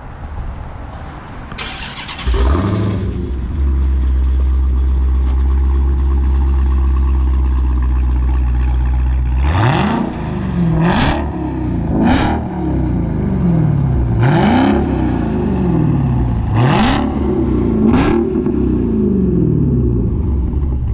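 Dodge Hellcat's supercharged 6.2-litre HEMI V8 starting about two seconds in, idling steadily, then revved six times in sharp rises and falls through its exhaust, which has the resonators deleted and the stock mufflers still on.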